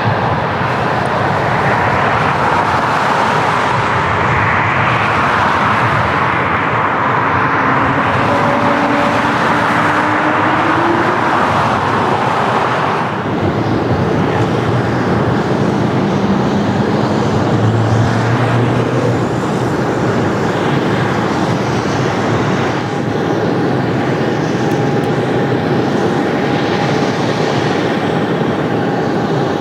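Jet aircraft engines running, a loud steady noise that shifts in character about thirteen seconds in, with a thin steady whine coming in a little past twenty seconds.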